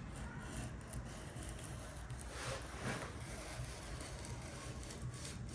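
Faint scraping of a handheld edge-banding trimmer drawn along a plywood edge, its blades shaving off the overhanging wood veneer banding, with a couple of slightly stronger strokes near the middle.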